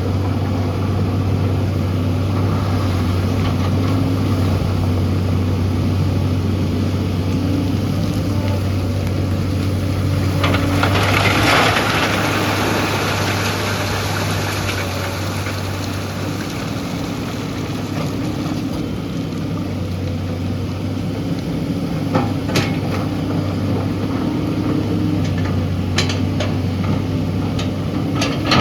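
SANY excavator's diesel engine running steadily with a deep, even hum. About ten seconds in, a rush of gravel pouring out of the bucket swells for two or three seconds, and a few sharp knocks come later on.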